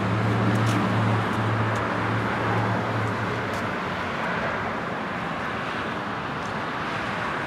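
Outdoor road traffic noise: a steady rush of passing vehicles, with a low steady hum that fades out about three seconds in.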